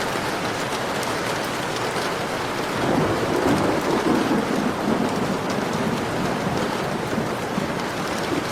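Heavy rain falling steadily, with a roll of thunder that swells about three seconds in and fades over the next few seconds.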